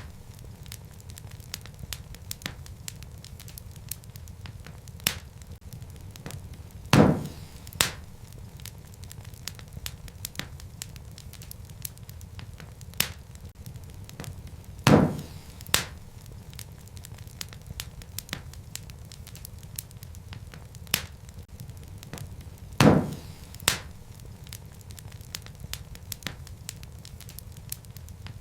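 Wood fire crackling in a fireplace: a steady low rumble of flames with frequent light snaps, and a loud sharp pop about every eight seconds, each followed by a smaller one.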